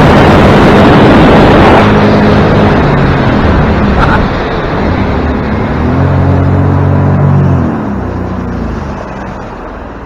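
A small boat's engine runs under way on the water, with a loud rush of wind and water in the first couple of seconds. The engine note shifts up and down, then drops back and quietens near the end as the craft slows.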